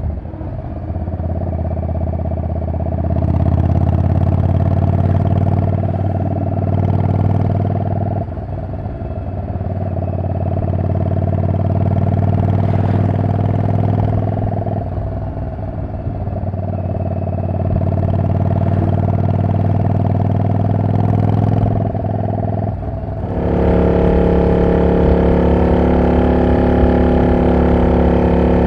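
Yamaha Drag Star 400 Classic V-twin running loud through an aftermarket muffler that is not legal for inspection, at steady cruising speed. The engine note eases off and builds again about three times. Near the end it settles into a different steady note.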